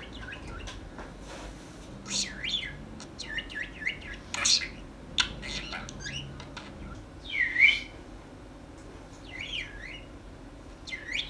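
Small pet parrot chirping and chattering: a string of short, high chirps and squawks, with one louder call about seven and a half seconds in.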